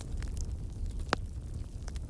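Wood campfire crackling: scattered small pops and snaps, with one louder pop about a second in, over a steady low rumble.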